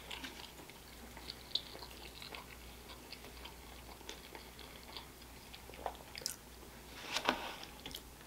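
Faint close-up chewing of soft food, mac and cheese and rice, with small wet mouth clicks scattered throughout and a slightly louder burst about seven seconds in.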